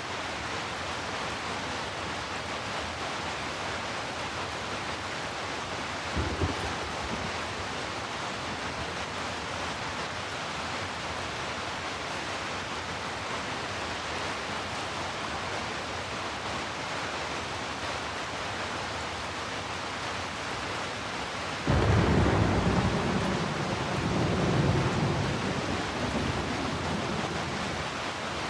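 Heavy rain falling in a steady hiss, with a brief low rumble of thunder about six seconds in. About twenty-two seconds in a louder roll of thunder breaks in suddenly and rumbles on, swelling and fading, for several seconds.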